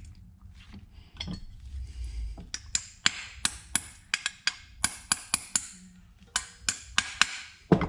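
A dozen or so light hammer taps on a steel punch, coming irregularly about two a second from about two and a half seconds in. The punch is being driven through a coiled spring to line it up.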